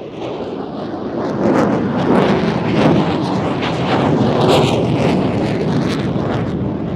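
Single-engine fighter jet flying a display, its engine noise a loud, rough rush that swells about a second and a half in and eases slightly near the end.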